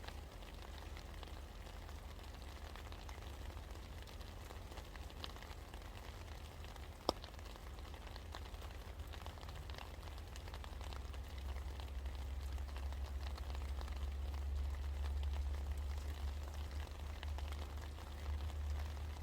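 Steady rain falling, pattering with many small drips, over a low rumble that grows louder in the second half. A single sharp tap comes about seven seconds in.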